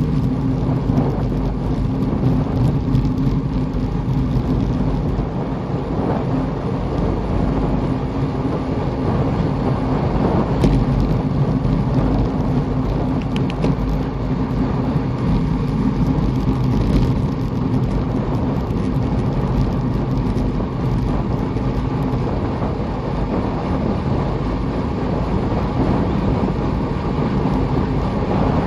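Motor vehicle running steadily at road speed: a constant engine drone under heavy road and wind rumble.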